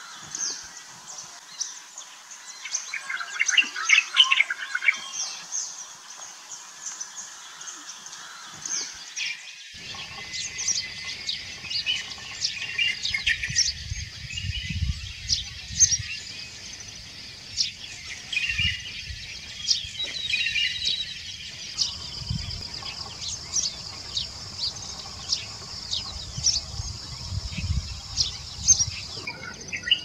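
Birds chirping and calling: many short, sharp notes throughout over a steady high hiss, with low rumbling from about ten seconds in.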